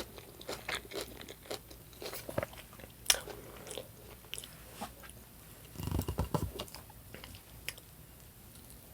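A person chewing and biting food close to the microphone, with scattered crisp crunchy clicks and a brief low thump about six seconds in.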